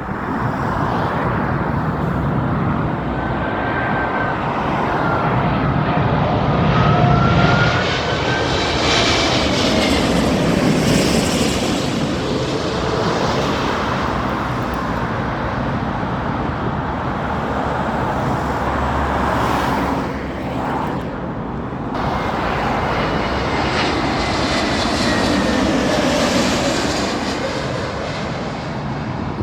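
Jet airliner engines on landing approach passing close overhead: a steady rumble with a whine that slides in pitch as the aircraft goes by, swelling twice.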